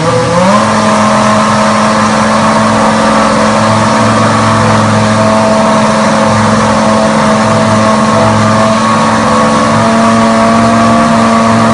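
2001 BAR Honda Formula 1 car's V10 engine running stationary, its speed rising from idle about half a second in and then held steady at the raised revs, heating the exhausts until they glow red hot.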